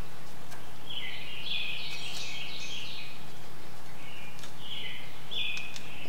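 Bird chirping in two spells of quick high chirps, the first about a second in and the second from about four seconds, over a steady background hiss, with a few faint clicks.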